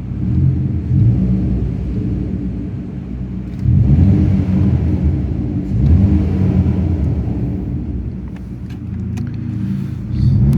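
Ford Fiesta Mk6's engine running through a Sportex aftermarket exhaust in an underground car park, blipped up several times and falling back between the blips; pretty loud.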